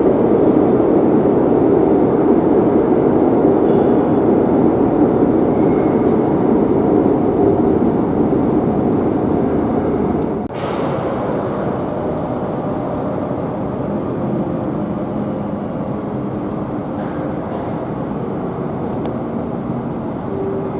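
Madrid Metro series 8000 train running, heard from inside the carriage: a steady rumble of wheels and running gear. The noise drops a little after about ten seconds, with a short click.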